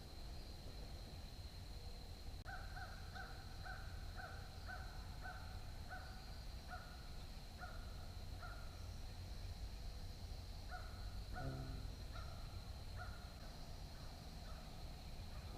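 A bird calling in two runs of evenly spaced, repeated calls, about two a second, the first run of about a dozen calls and a shorter second run near the middle. A steady high thin whine and a low rumble continue underneath.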